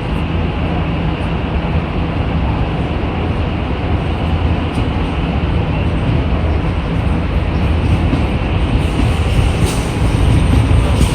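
MTR East Rail line R-train electric multiple unit moving along the station platform with a steady low rumble and rolling wheel noise. It grows slightly louder, with clicks and rattles, in the last couple of seconds.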